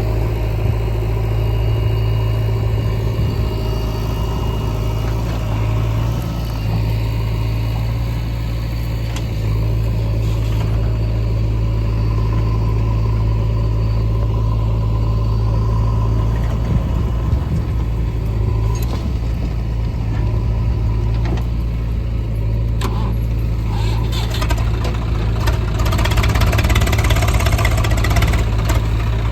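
Diesel engine of a JCB 3DX backhoe loader running steadily under work, with a few sharp knocks in the second half. It gets a little louder near the end.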